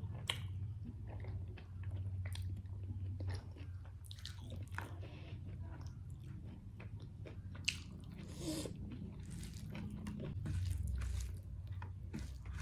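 A person chewing and biting food close to the microphone, with irregular short mouth clicks throughout.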